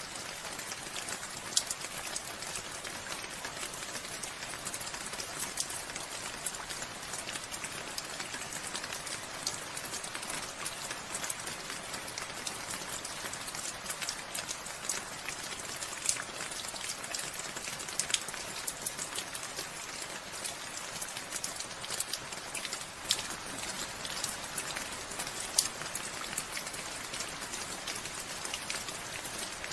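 Steady rain falling, a dense even hiss scattered with sharp, close drop impacts.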